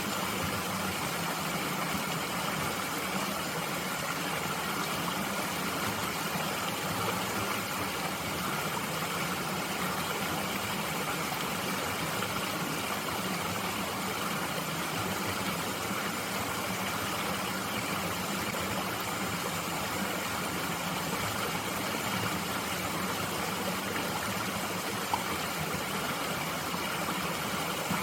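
Mountain stream flowing steadily, a continuous even rush of water, with one faint click near the end.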